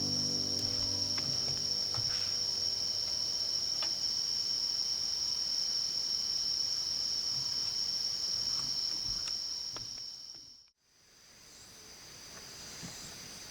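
Continuous high-pitched chirring of an insect chorus. Faint piano music fades out during the first two seconds. About three-quarters of the way through, the sound drops away to nothing and then fades back in as a similar chorus.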